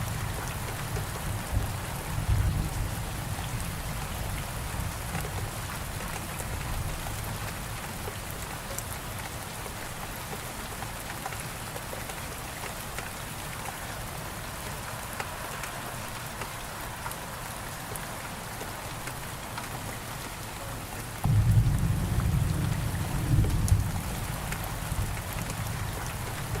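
Steady heavy rainfall with thunder: a low rumble in the first few seconds that dies away, then a louder thunder roll that breaks in suddenly about twenty seconds in and rumbles on.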